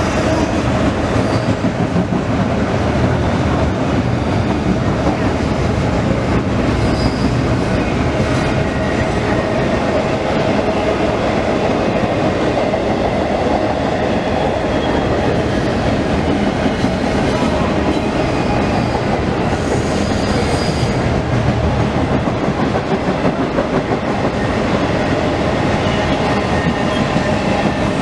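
CSX intermodal freight train rolling past at close range: a steady, loud rumble of cars over the rails, with clickety-clack from the wheels.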